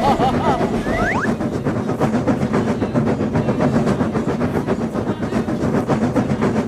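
Train sound effect: a steady, rhythmic clatter of train wheels over rail joints, with a couple of short rising whistle-like glides about a second in.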